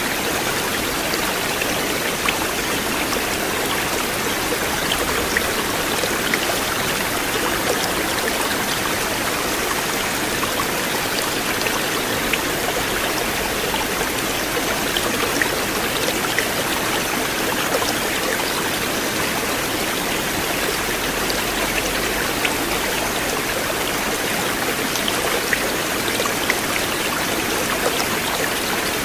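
River water flowing steadily, with small splashes ticking through it here and there.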